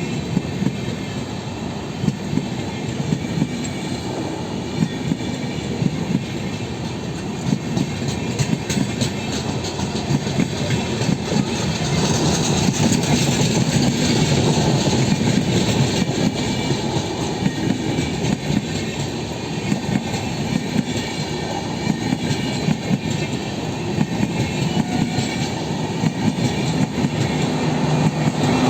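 Train running past on the track, its wheels clicking over rail joints against a steady rumble. It grows a little louder about twelve seconds in.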